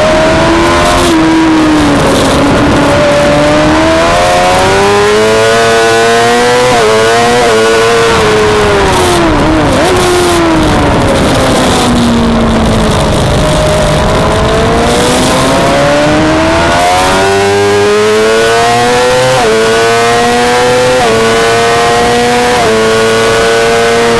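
Suzuki GSX-R600 inline-four racing engine under hard use on track: it revs up through the gears with sudden drops in pitch at each upshift, falls away steeply under braking into a slow corner near the middle, then climbs through four quick upshifts near the end. A steady rush of wind lies under it.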